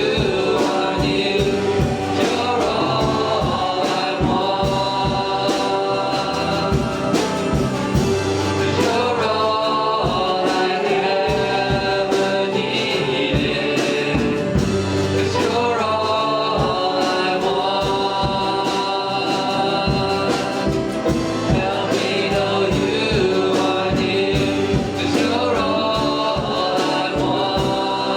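Gospel-style worship song: voices singing over band accompaniment with a steady drum beat.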